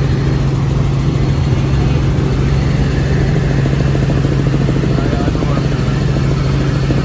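Helicopter in flight heard from inside the cabin: a loud, steady engine and rotor drone with a strong low hum.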